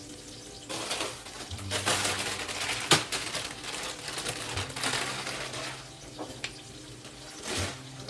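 Cubed potatoes and spices frying in olive oil in a pan, sizzling as they are stirred, with uneven scraping strokes and one sharp knock about three seconds in.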